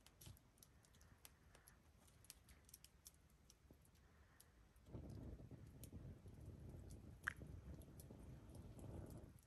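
Faint eating sounds: someone chewing a mouthful of miso-stewed udon, with small scattered clicks. The chewing gets louder about halfway through.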